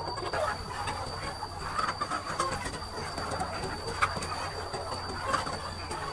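A flock of chickens calling, many short overlapping calls, over a steady low hum and a thin, steady high-pitched tone.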